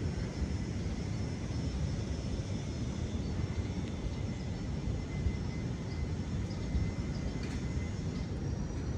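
Steady low rumble of wind and Indian Ocean surf, with faint thin high tones running over it.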